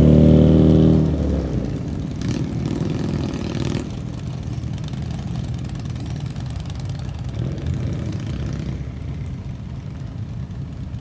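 Car engine running at low speed, loud in the first second and then fading, followed by a quieter steady rumble from other running engines.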